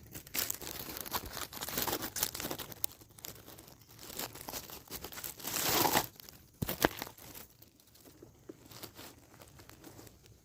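Dry leaves and brush rustling and crackling in irregular bursts, growing louder about five seconds in, with a sharp snap a little later.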